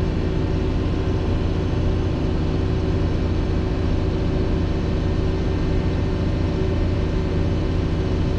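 Large diesel engine of farm machinery running steadily at a constant speed, with a deep, even hum and no changes in pitch.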